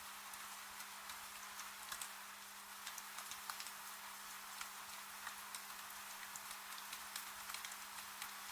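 Steady rain hiss with irregular sharp drops ticking and tapping, over a faint low hum.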